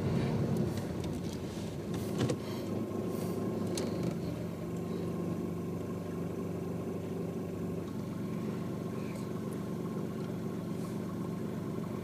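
Car engine running steadily, with a few short clicks in the first few seconds.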